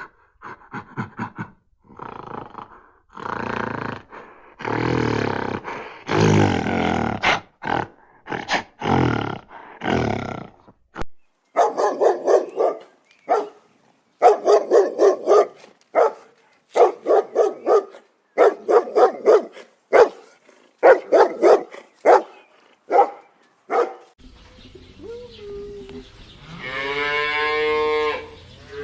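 A run of different animal calls: rough growling and roaring calls for the first ten seconds or so, then a dog barking over and over at about one bark a second, then a cow lowing in one long moo near the end.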